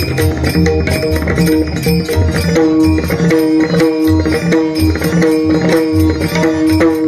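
Bhajan accompaniment playing an instrumental passage between sung lines: steady held melody notes over a quick, even drum rhythm with sharp metallic strokes.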